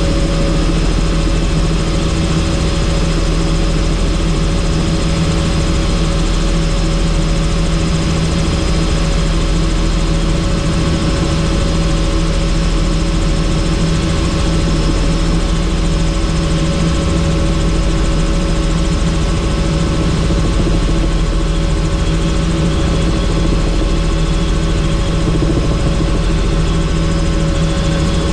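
Helicopter in flight, heard on board: a steady, loud drone of turbine and rotor with a constant hum that does not change.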